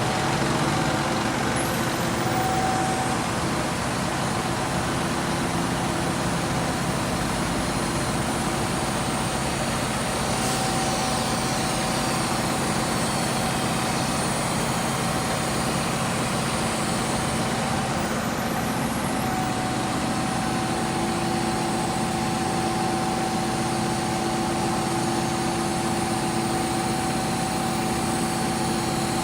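Concrete pump truck's diesel engine running steadily, with a constant hum over the engine noise.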